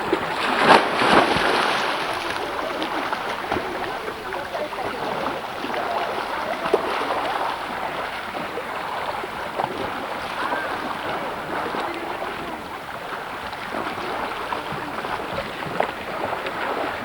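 Sea water sloshing and splashing, with a louder stretch of splashing about a second in.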